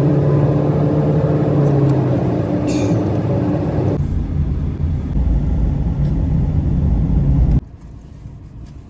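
Car engine and road noise heard from inside a moving car, a steady low drone. It cuts off suddenly near the end, leaving a much quieter background.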